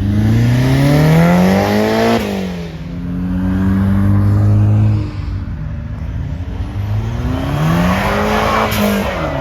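Car engine revving: the pitch climbs for about two seconds and drops sharply, settles to a steady note, then rises and falls again near the end.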